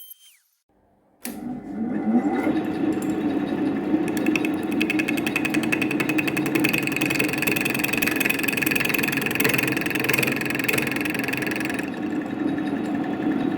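CNC router spindle starting about a second in, its pitch rising as it spins up, then running steadily under load with a rapid chattering as the bit cuts the part.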